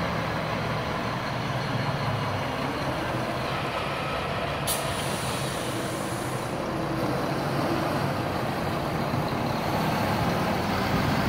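Heavy diesel truck engine running as the truck pulls slowly past, with a short hiss of air brakes a little under halfway through.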